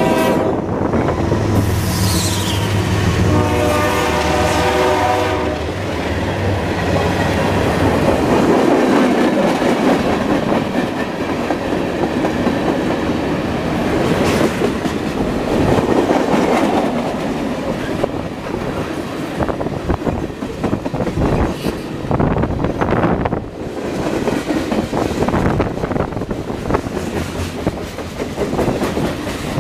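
CSX ES40DC diesel locomotives' Nathan K5HL chime horn blowing for a road crossing as the locomotives pass, over the low drone of their engines; the horn stops about five seconds in. Freight cars then roll past with a steady rumble and the clickety-clack of wheels over rail joints.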